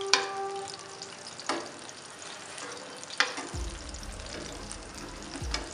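Chapli kababs shallow-frying in hot oil in a pan, a steady sizzle. Four sharp clicks of metal spatulas against the pan come through it as the kababs are turned over.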